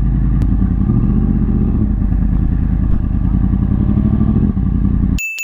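2014 Yamaha R1's crossplane inline-four engine running as the sportbike pulls away and rides off at low speed, its note shifting slightly a few times.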